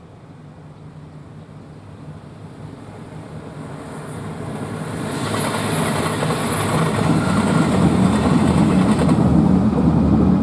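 JR Shikoku 2000 series diesel train approaching, its engine and wheel rumble growing steadily louder until it is passing close by in the last few seconds.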